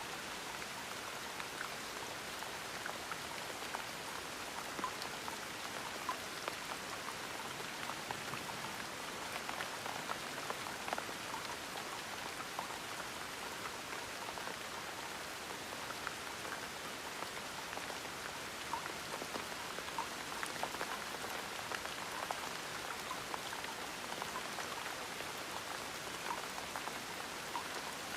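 Gentle rain falling steadily: an even hiss dotted with many small, irregular drop ticks.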